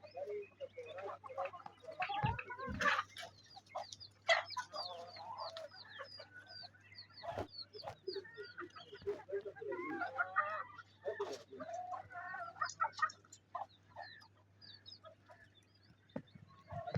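Hens clucking while they forage, many short calls overlapping, with a run of small high chirps in the middle and a few sharp clicks.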